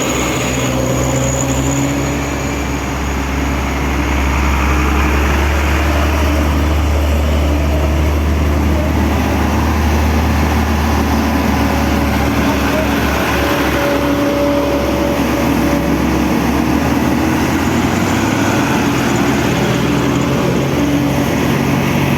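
Heavy truck diesel engine running steadily under load, with an even low drone throughout.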